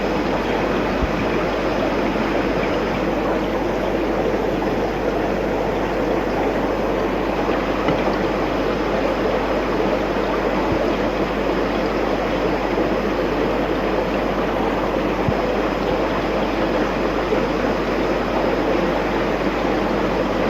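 Steady rush and trickle of aquarium water from the filter, with a constant low hum underneath.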